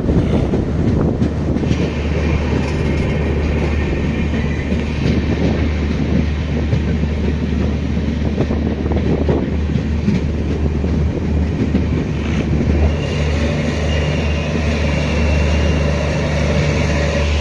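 Dony Polo Express passenger train running on the rails, heard from on board: a steady heavy rumble with rail clatter. A faint high squeal joins in near the end.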